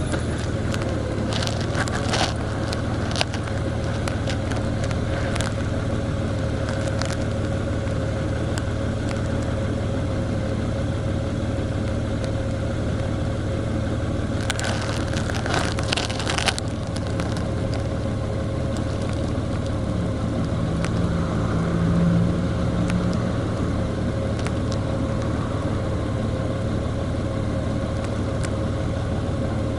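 A vehicle running along the road: a steady engine and road drone with a constant hum, broken by scattered clicks and a short spell of crackling about halfway through.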